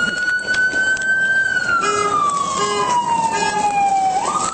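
Police car siren wailing: its pitch slides slowly down for about three seconds, then jumps quickly back up near the end and holds high.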